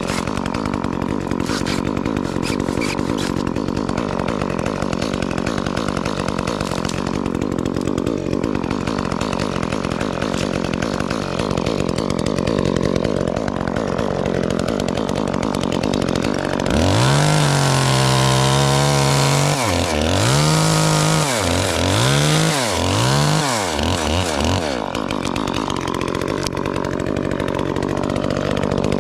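Chainsaw engine running steadily, then revved up about two-thirds of the way through, its pitch dipping and climbing back about four times before it drops back to the lower steady running.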